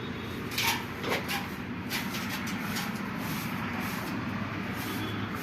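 A few short knocks from tools and parts during tractor gearbox repair, bunched in the first two seconds or so, over a steady low rumble.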